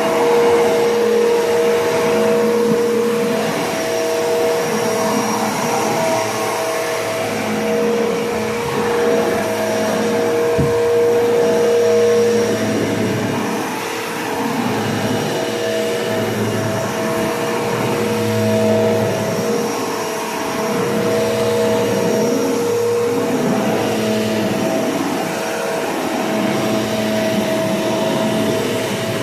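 Bissell PowerForce Bagless Turbo 6596 upright vacuum cleaner running steadily, its motor drone rising and falling slightly as it is pushed back and forth, with a single click about ten seconds in.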